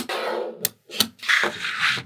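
Small magnetic balls clicking as they snap together, twice in the first second, with a longer rattling scrape in the second half as a cluster of balls is shifted and slid along.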